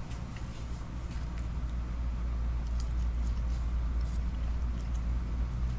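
A person chewing food close to the microphone, with soft, scattered wet mouth clicks over a steady low hum.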